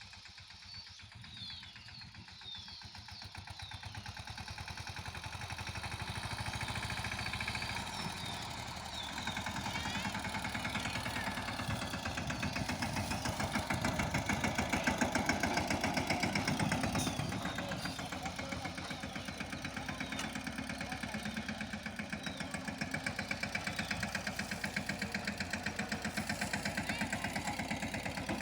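Mahindra Yuvraj mini tractor's single-cylinder diesel engine running with a fast, even chugging. It grows louder through the first half, then holds steady.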